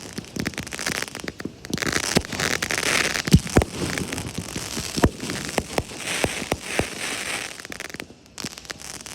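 Fireworks going off: a run of sharp bangs mixed with bursts of crackling, the loudest bang a little over three seconds in.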